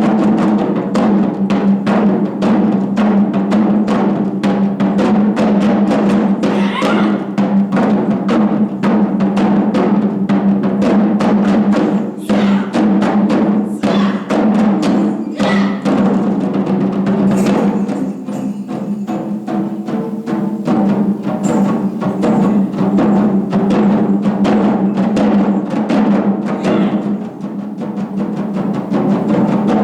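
Japanese taiko drums played as an ensemble in a fast, dense run of strokes over a steady low undertone. The playing eases briefly about twelve seconds in and again a little later.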